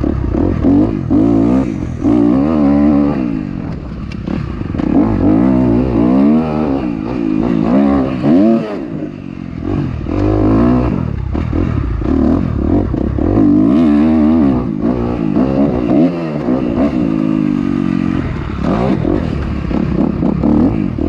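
Dirt bike engine revving hard, its pitch climbing and then dropping back again and again every second or two as the throttle is worked and it shifts through the gears.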